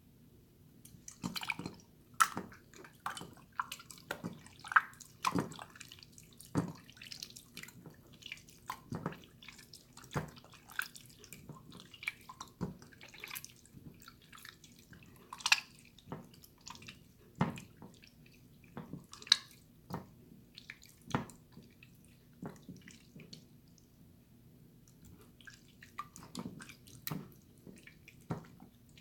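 Watery, jiggly slime being handled, giving irregular wet squelches, splats and drips, a few a second, with a short lull near the end.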